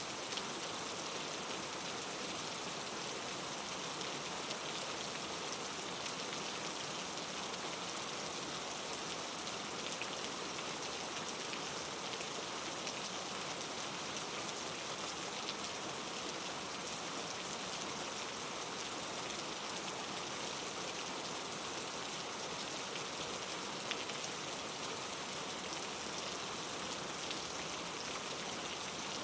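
Steady patter of precipitation falling on a surface, an even hiss made up of many fine, close-spaced ticks.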